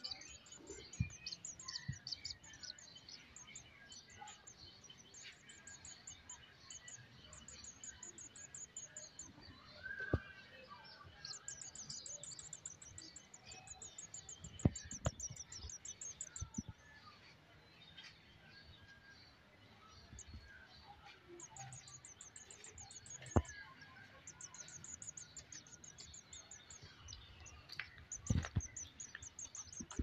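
A small young bird chirping in quick runs of short, very high notes, with a few brief pauses, and a few sharp knocks from handling.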